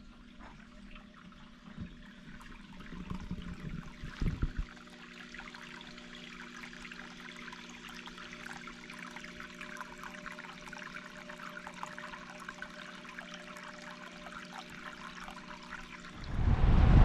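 Rain pattering steadily, a dense fizz of small drops, over a faint steady hum, with a few louder knocks about four seconds in. Near the end a much louder rushing sound cuts in.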